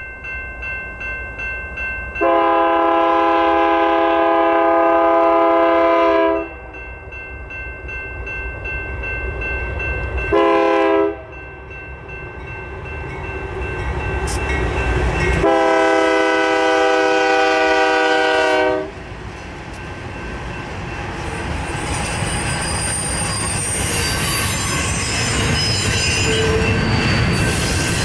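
A freight locomotive's air horn sounds a long blast, a short one, then another long blast, the close of a grade-crossing horn signal. The train then rumbles past, growing louder, with steel wheels squealing on the rails near the end.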